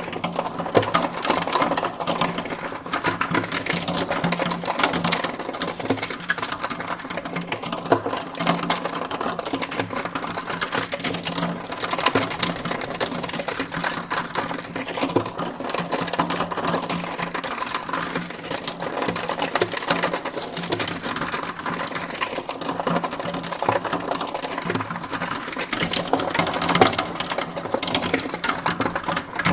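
Steady, rapid mechanical clattering, dense fine clicks with a faint low hum under them, sweeping slowly from side to side in a binaural 8D mix.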